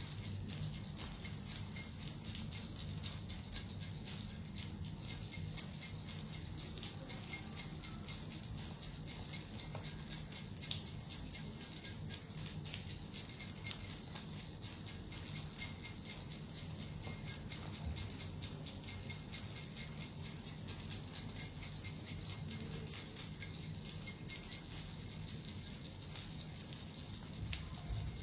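Small Japanese suzu bells shaken continuously: a dense, steady jingle with a constant high ring.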